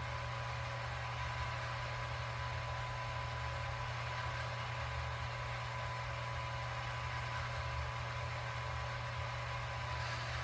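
Steady machine hum and whir with a faint high tone held throughout, unchanging in level.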